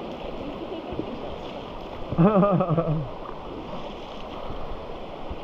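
River water rushing steadily around a raft, with a person's voice calling out briefly about two seconds in.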